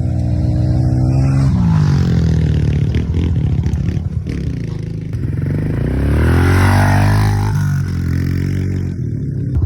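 Honda CRF110 pit bike's small single-cylinder four-stroke engine revving up and falling back several times as it is ridden, with some clatter.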